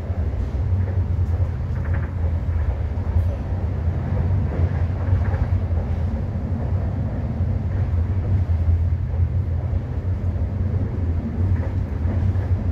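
Steady low rumble of a passenger train running at speed, heard from inside the carriage: wheels rolling on the rails and the car's running noise.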